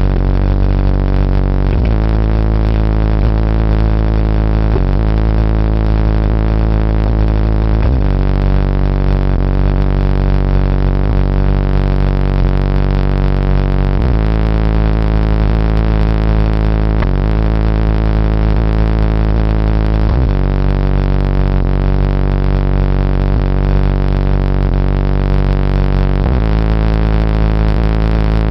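Loud, heavily distorted bass-heavy music played through a car's high-power competition sound system, its chords changing about every two seconds.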